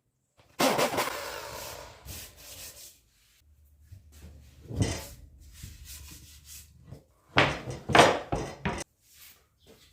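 Pieces of wood being handled: a knock with a scraping slide about half a second in, another knock near the middle, then a quick run of wooden knocks and clatter near the end.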